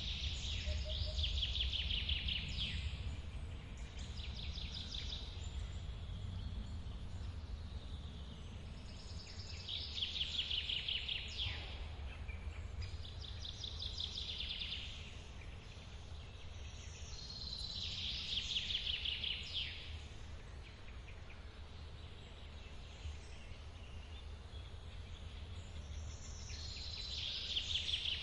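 Steady low rumble of a forest waterfall, with a songbird repeating a short trilled phrase about every eight to nine seconds.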